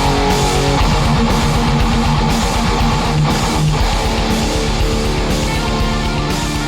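Heavy metal instrumental passage: electric guitars playing sustained chords over a fast, driving low-end rhythm, with no vocals.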